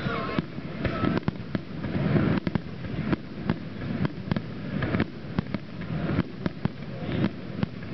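Aerial display fireworks bursting: many sharp bangs and crackles in quick, irregular succession over a steady low rumble.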